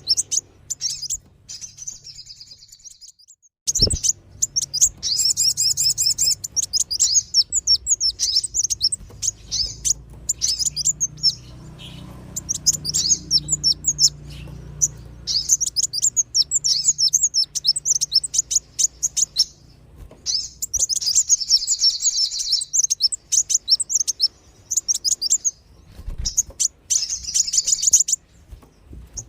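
Bird-lure recording of kolibri wulung and sogon (sunbird and spiderhunter) calls: rapid high-pitched chirps and twitters in bursts of a few seconds with short gaps between them. A single low thump sounds about four seconds in.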